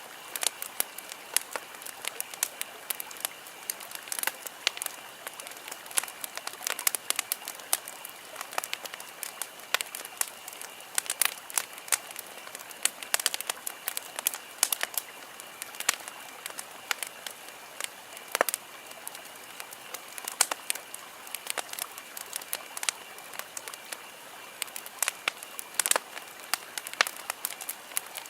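Wood campfire crackling, with irregular sharp pops and snaps several times a second over a soft hiss. A faint steady high-pitched tone sits in the background throughout.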